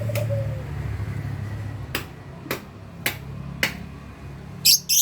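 Lovebirds in a colony cage: five sharp clicks, then two short shrill chirps close together near the end, over a steady low hum.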